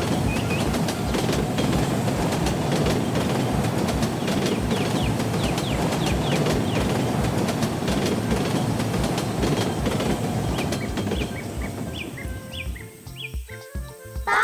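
Heavy vehicle rumbling with a rapid low pulsing and a few light squeaks, fading out near the end as a short children's music jingle comes in.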